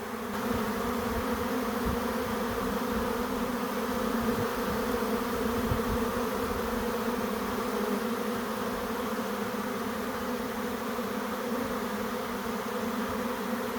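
A honey bee swarm in flight, a mass of bees in the air moving into empty hive boxes. It makes a steady, loud buzzing drone.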